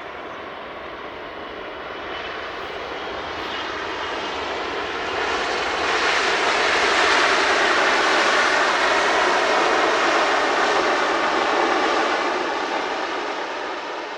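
Jet airliner passing close by while arriving to land, its engine roar swelling to a peak about halfway through and then starting to fade.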